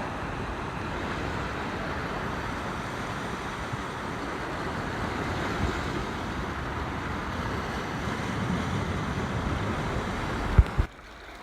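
Steady rush of sea surf and wind blowing across the microphone. Near the end there is a low bump, then the rush drops suddenly quieter.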